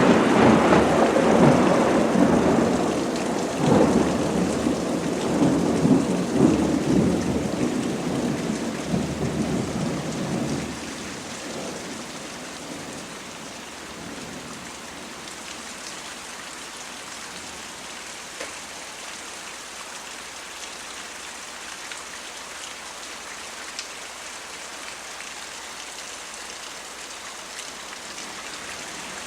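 A thunderclap's long rolling rumble in several swells, dying away about ten seconds in, over steady heavy rain that carries on alone.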